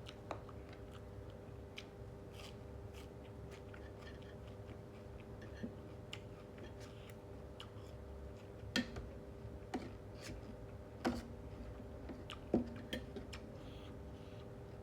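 A person chewing and eating a spicy seafood instant-noodle salad, with scattered small clicks and taps, the loudest about nine, eleven and twelve and a half seconds in, over a steady faint hum.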